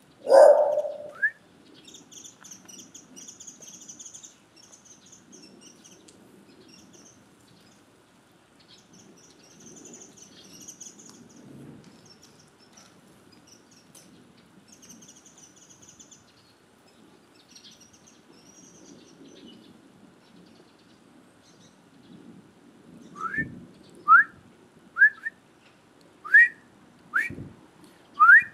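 Small birds chirping in scattered bursts. Near the end come six short, loud rising whistles about a second apart. A single loud short call sounds right at the start.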